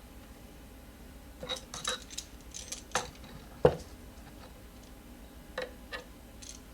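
Metal wrench clicking and clinking on the bolts of an e-scooter's suspension as they are checked and tightened. A cluster of clinks comes about a second and a half in, a louder knock follows just past the middle, and two more clicks come near the end.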